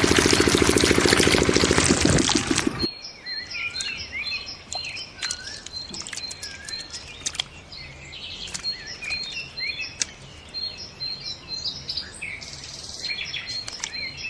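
Small diesel water-pump engine running for about two and a half seconds, then cut off suddenly. Birds chirping against a quiet outdoor background, with scattered clicks and a repeating high thin tone.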